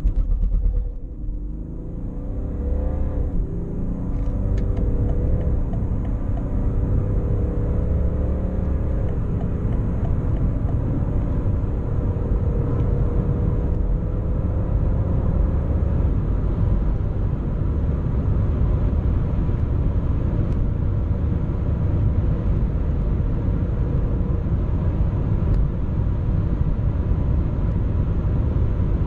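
BMW 530d's 3.0-litre straight-six turbo-diesel accelerating hard from a standstill, heard from inside the cabin. The engine note climbs and drops back with each upshift over the first nine seconds or so, then holds a steadier drone under a heavy rumble of road and wind noise as the speed climbs past 200 km/h.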